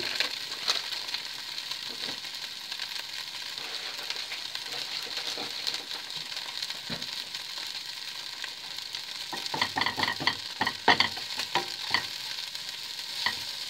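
Crumpet cubes with melting mozzarella sizzling steadily in oil in a frying pan. From about nine seconds in, a wooden spoon stirs and pushes them around the pan with a run of knocks and scrapes.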